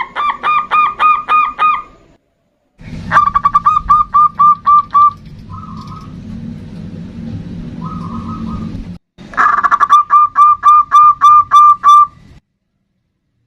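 Zebra dove (perkutut) song: three runs of rapid, evenly repeated cooing notes, about four a second, each run cutting off suddenly. A low steady hum lies under the middle run.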